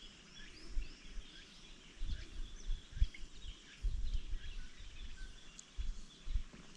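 Several small birds chirping, with many short high calls overlapping throughout. Irregular low rumbling thumps come and go underneath.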